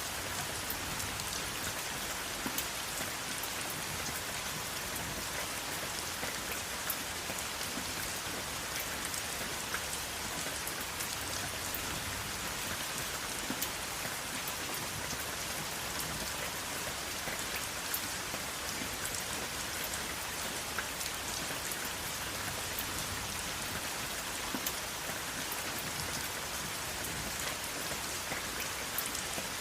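Steady rain falling, an even hiss with scattered sharp drop hits on a surface and no thunder.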